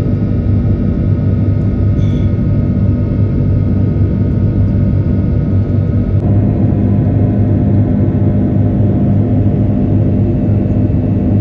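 Steady hum of an airliner cabin: engine and air-system noise, low and even, with fixed steady tones running through it.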